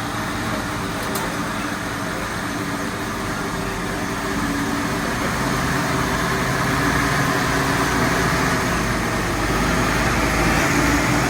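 1965 Ford Mustang's engine running steadily, growing gradually louder partway through.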